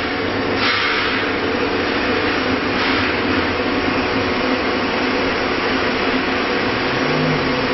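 CNC router running steadily with a constant machine hum, likely as it engraves an acrylic sheet, with two short hissing bursts about half a second in and about three seconds in.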